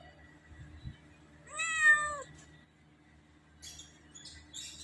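A cat meowing once, a single drawn-out call about a second and a half in.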